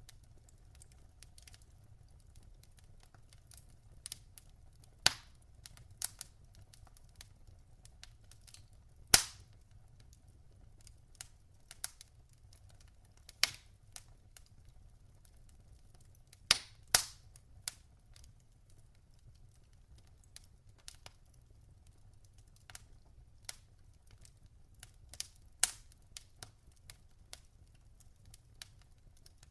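Logs burning in a fireplace, crackling with irregular sharp pops and snaps a second or two apart. The loudest pops come about nine seconds in and as a close pair around seventeen seconds, over a faint low steady rumble.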